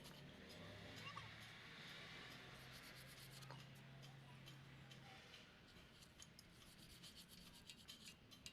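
Faint rubbing and scraping with a few light clicks, over a low steady hum that fades about five seconds in.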